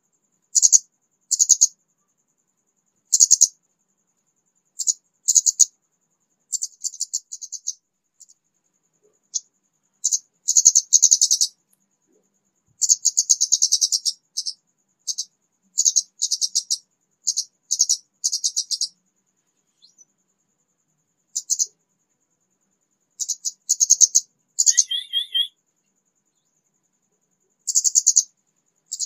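Orange-headed thrush singing in short, high, rapid twittering phrases separated by pauses, with one lower, slower phrase about 25 seconds in; an untrained bird just beginning to sing.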